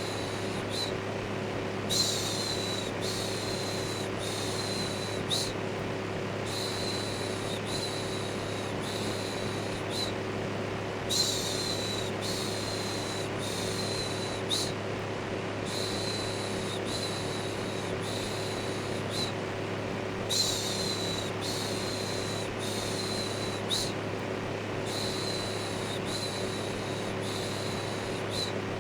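Electric fan running steadily with a low motor hum, overlaid with repeated 'shhh' shushing sounds. The shushes come about a second each, in runs of three or four with short pauses between. Together they make a constant white-noise bed meant to soothe a baby to sleep.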